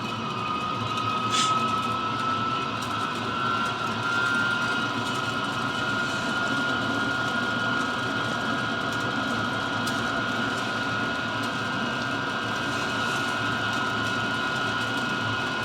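Chinese diesel parking heater running, its blower motor giving a steady whine that rises slightly in pitch over the first few seconds, with a short hiss about a second and a half in.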